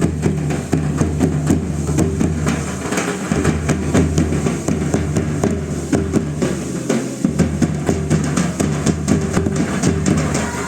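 Folk drums beating a fast, steady rhythm to accompany a tribal dance, with a low steady hum underneath.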